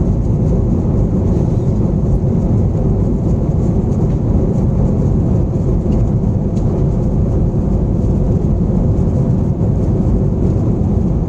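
Steady, loud low rumble of an airliner's engines and airflow heard from inside the passenger cabin.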